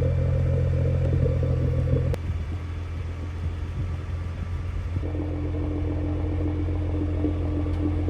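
2017 Nissan GT-R's 3.8-litre twin-turbo V6 running steadily under way. About two seconds in its note drops and quietens, as on an upshift or lifting off. From about five seconds it holds a new steady note.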